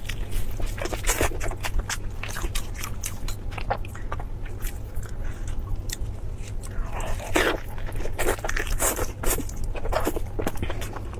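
Close-miked crunchy biting and chewing of crispy food: a dense run of sharp crackles and crunches.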